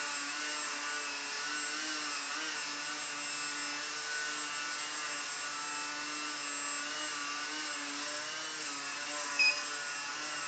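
Electric motor and propeller of a Techone mini Yak54 foam RC airplane hovering: a steady whine whose pitch wavers slightly up and down. A short, loud high beep about nine seconds in.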